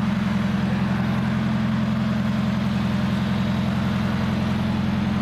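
Car engine running at a steady speed, a low, even drone that neither revs up nor drops.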